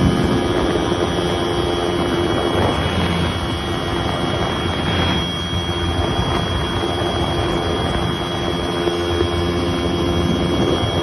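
Ultralight airplane's engine and propeller running steadily in flight, with a steady hum and a rushing noise from air and propeller.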